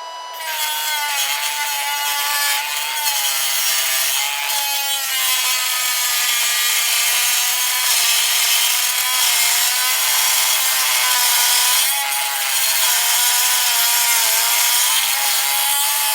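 A power grinder's abrasive cut-off wheel cutting into the steel shackle of a Master Lock padlock: a steady motor whine that dips slightly in pitch under load, with loud harsh grinding noise from the wheel on the metal starting about half a second in.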